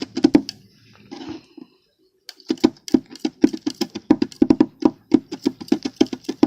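Rapid, rhythmic chopping taps of spatulas on a rolled-ice-cream plate, about five knocks a second, breaking up lumps of Oreo cookie in the mix; they stop briefly about a second and a half in, then carry on.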